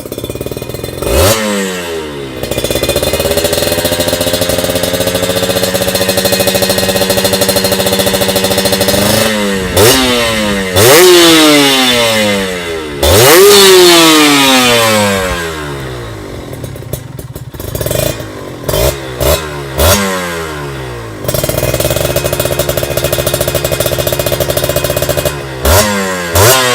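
Kawasaki Ninja RR's two-stroke single revving through an R9 Mugello aftermarket exhaust. It gives sharp throttle blips and holds high revs for several seconds at a time, falling back toward idle in between.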